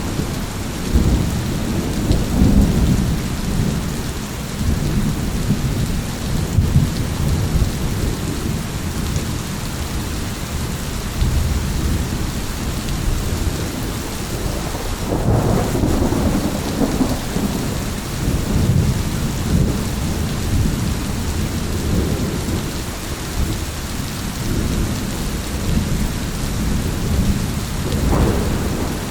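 Steady heavy rain with rolling thunder rumbling on and off throughout, swelling to louder peals about halfway through and again near the end.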